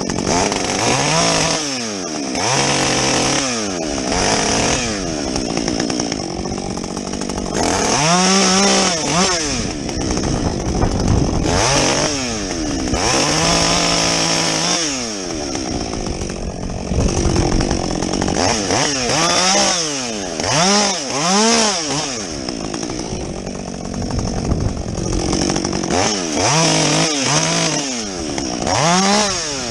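Husqvarna 562XP two-stroke chainsaw with a modified muffler, revving up and dropping back over and over, with a few longer stretches held at high revs while bucking felled logs.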